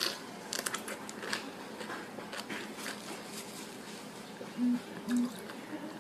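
A person biting and chewing a piece of green lemon: scattered wet crunches and clicks, then two short closed-mouth hums about half a second apart near the end, the loudest sounds, as she reacts to the sourness.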